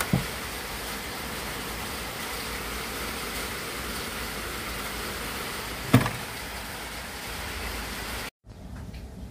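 Steady hiss from a cassette radio's speaker, with two short low thumps, one right at the start and one about six seconds in. The hiss cuts off abruptly near the end, leaving a quieter background with faint ticks.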